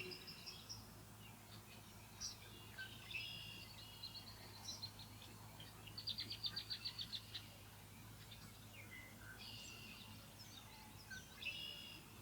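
Faint bird calls: scattered high chirps and whistled notes, with a quick run of about ten short notes around six seconds in, over a low steady hum.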